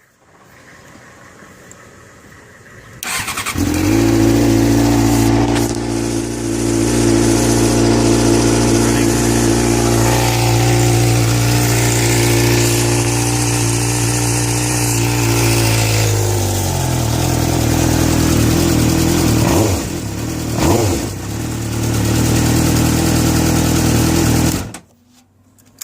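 A 2006 Suzuki GSX-R600 inline-four engine is cold-started: it catches about three seconds in and runs at a fast, steady cold idle. About 16 s in the idle drops to a lower pitch. There are two short revs around 20 seconds, and then the engine is shut off suddenly near the end.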